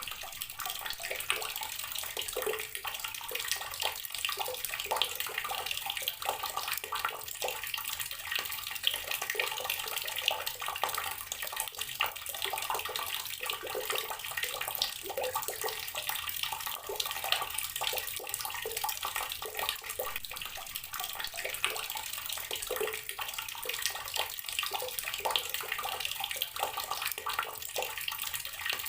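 Tap water running steadily into a partly filled container, splashing and gurgling continuously.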